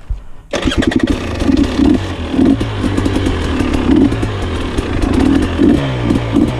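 GAS GAS 300 two-stroke enduro motorcycle engine cuts in abruptly about half a second in, then runs and revs in uneven surges, with clattering throughout.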